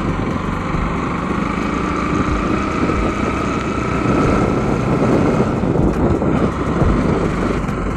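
Motorcycle being ridden on the road: steady engine and road noise with wind rushing over the microphone.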